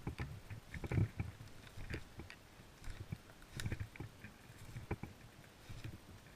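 Footsteps of a walking player on ground cover, uneven thuds with small crackles of twigs or dry leaves and the rustle of worn gear.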